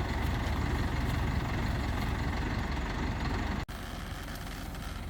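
Crane engine running steadily at idle, a continuous low rumble. About two-thirds of the way through it cuts out for an instant and carries on slightly quieter.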